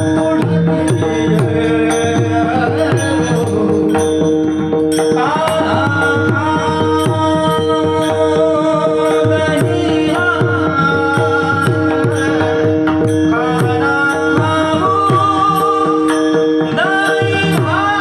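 Kirtan music: a mridang (pakhawaj) drummed in a fast, dense rhythm under a steady held drone, with a voice singing, strongest from about five seconds in.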